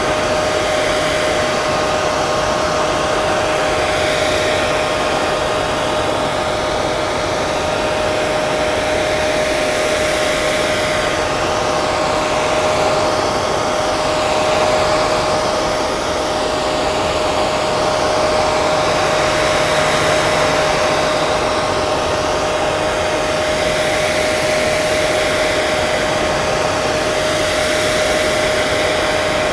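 Electric hair dryer running steadily: a constant rush of air with a steady motor whine, and a slow sweeping change in the hiss.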